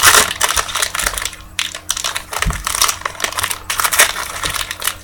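Trading-card pack wrapper being torn open, with irregular crinkling and crackling of the foil.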